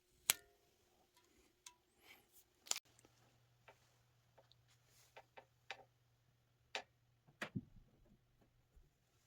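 Scattered light clicks and taps, the sharpest about a third of a second in and a cluster of knocks near the end, over a faint low hum in the middle.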